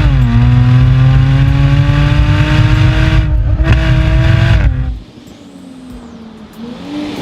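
Jaguar F-Type V6 S's supercharged 3.0-litre V6 pulling hard: the engine note drops with an upshift at the start, then climbs steadily through the gear. About five seconds in it falls away abruptly to a much quieter note, then starts rising again near the end.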